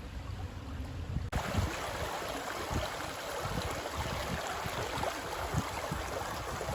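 Rushing water of a small river (a burn) swollen by a night of rain: a steady hiss of running water that comes in abruptly louder about a second in, with gusts of wind rumbling on the microphone.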